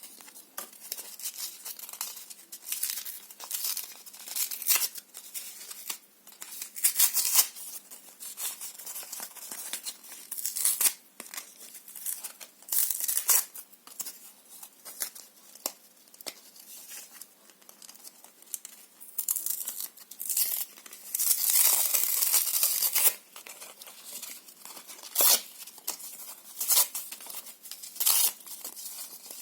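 Paper and cardboard being torn in short, irregular rips and crinkles, with a longer continuous tear about 21 seconds in.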